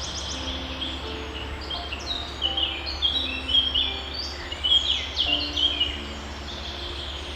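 Songbirds chirping in quick downward-sweeping notes, busiest and loudest in the middle, over a steady low hum and soft held low notes.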